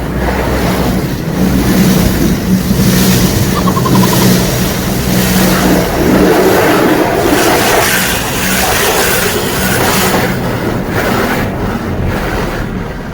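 Automatic tunnel car wash heard from inside the car's cabin: water and washing equipment spraying against the body, with a loud rushing noise that swells and fades over a steady machinery hum.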